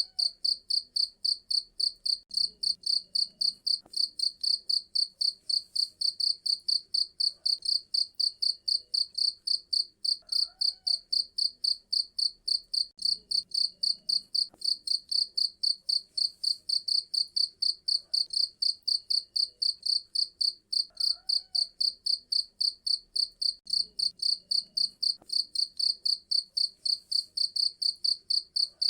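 Cricket chirping: a shrill, high pulse repeated evenly a few times a second, without let-up.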